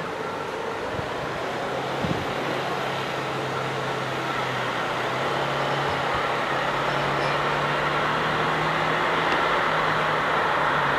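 Electric locomotive hauling a container freight train on the approach: a steady low hum over rolling rumble, growing gradually louder as it comes nearer.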